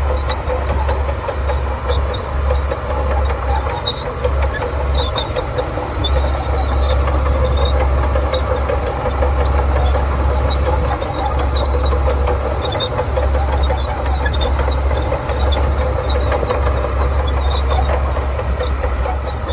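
Shantui DH17C2 bulldozer's diesel engine running steadily while clearing sand: a continuous deep drone with a mid-pitched hum over it, and faint scattered high clicks.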